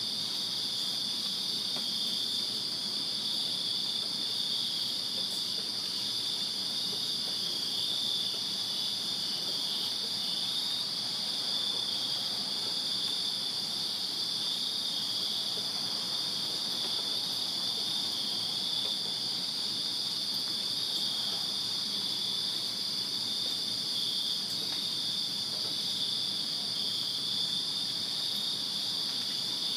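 A chorus of crickets chirping steadily on a summer night, a continuous high trill at two pitches that neither starts nor stops.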